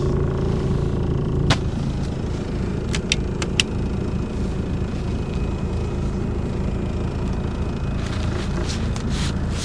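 A truck's engine running with a steady low rumble. A few sharp clicks come about a second and a half in and around three seconds in, and there are some rustling sounds near the end.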